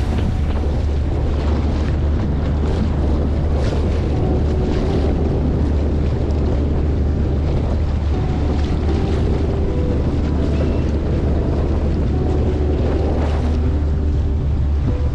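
Motorboat under way: a steady engine drone and water noise, with heavy wind buffeting the microphone.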